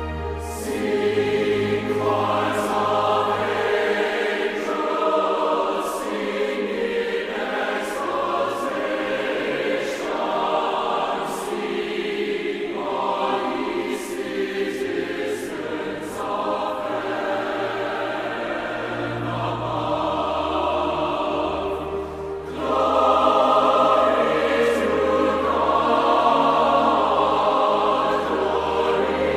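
A choir singing, coming in just after the start and getting louder about two-thirds of the way through.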